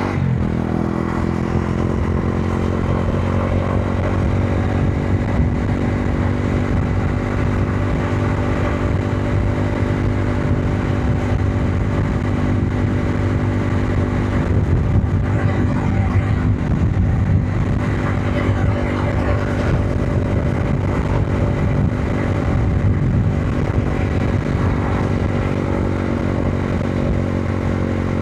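Modenas Dominar 400's single-cylinder engine running at a steady speed under way, heard from the rider's position. The pitch dips briefly right at the start, then holds steady, with a constant rush of air and road noise over it.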